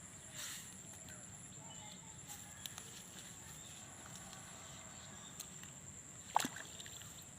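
Quiet outdoor background with a steady high-pitched tone and faint short chirps, broken by one sharp click about six seconds in.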